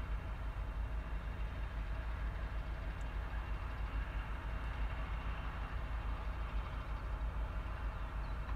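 Freight train hauled by diesel locomotives running past at a distance: a steady low rumble with a hiss above it.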